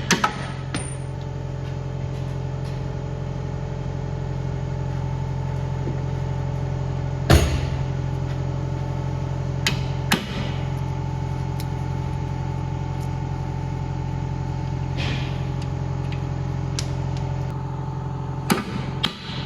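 A steady mechanical hum with a handful of sharp knocks, the loudest about seven seconds in and a pair near the end.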